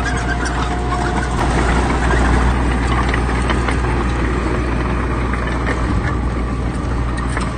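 Heavy diesel earthmoving machinery running steadily with a deep engine drone; a thin whine over it stops about a second and a half in.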